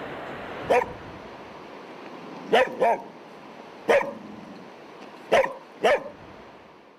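A dog barking six times in short single barks, some in quick pairs, over a steady background hiss.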